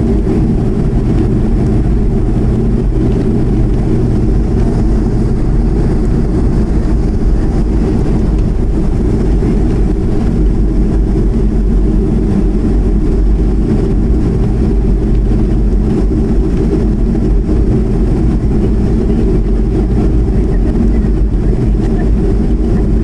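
Boeing 737-200's Pratt & Whitney JT8D turbofans running at steady power, a loud even low drone with no change in pitch or level.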